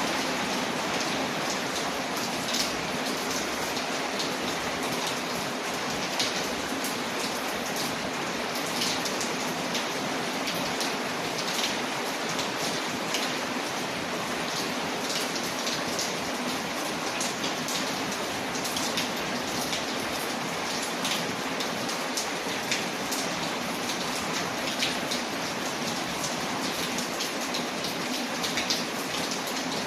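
Steady rain pattering on a window, a constant even hiss with many scattered sharp drop ticks.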